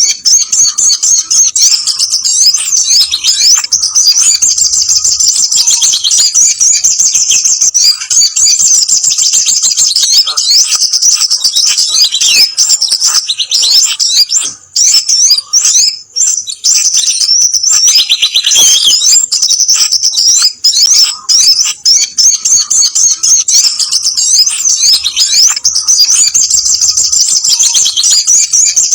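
Bird-lure recording of sogok ontong (crimson sunbird) calls: dense, rapid, high-pitched chattering and twittering that runs on almost without a break, with a couple of short pauses about halfway through. It is the excited, noisy calling used to draw wild birds of the species down.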